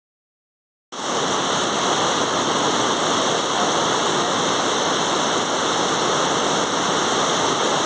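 The Rhine Falls, a large waterfall, as a loud steady roar of falling water, cutting in abruptly about a second in.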